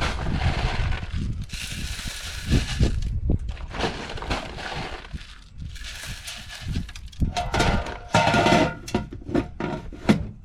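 Birdseed being poured into a bird feeder, the loose seed rushing and rattling in irregular spurts with sharp clicks, busiest near the end.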